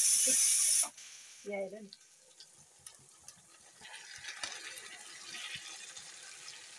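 Food sizzling as it fries in a pan, loud at first and cutting off abruptly about a second in. Quieter sizzling follows, with scattered clicks of stirring, growing from about four seconds in.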